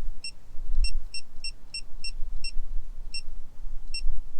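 Digital torque wrench beeping as engine bolts are brought up to torque: about eleven short, high electronic beeps at uneven gaps of a third of a second to most of a second, over a low rumble.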